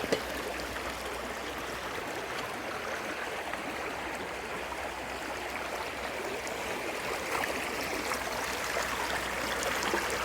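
Small creek running, a steady babble of flowing water, with one light knock right at the start.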